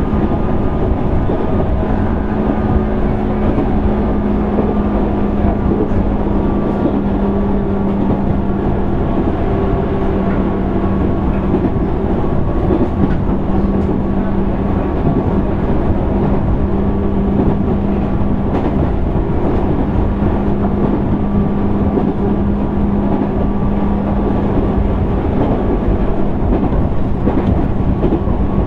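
Interior running sound of a JR East 205 series 600-subseries electric train, heard in the motor car: a steady hum at one even pitch over the constant rumble of wheels on rail, as the train runs at a steady speed between stations.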